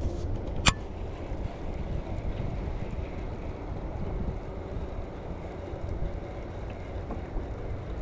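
Steady low rumble of wind and water noise on the microphone aboard a kayak, with one sharp click less than a second in.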